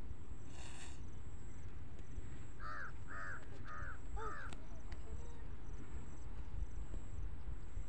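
A bird calling four times in quick succession, about half a second apart, over a steady low rumble of wind on the microphone.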